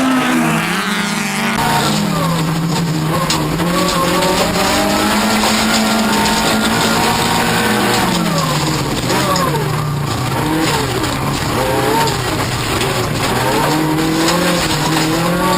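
Race car engine at hard throttle, its revs climbing and dropping several times as it goes through the gears and lifts off, over steady tyre and road noise.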